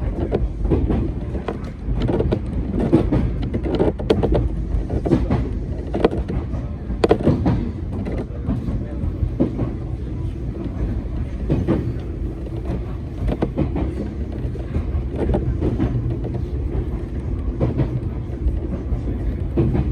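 Hakone Tozan Railway train running on the track, heard from inside the car: a steady low rumble with scattered clicks and knocks from the wheels over the rails.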